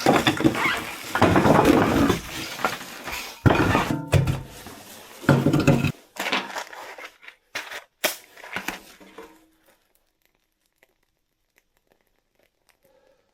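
Scrap lumber and metal hardware clattering and knocking as wood is handled and fed into a wood stove, with rustling and crinkling among the knocks. The clatter thins to a few clicks and stops about nine seconds in.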